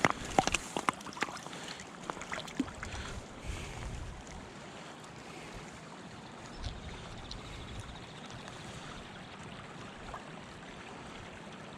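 Steady rush of flowing river water, with a cluster of sharp clicks and knocks in the first three seconds.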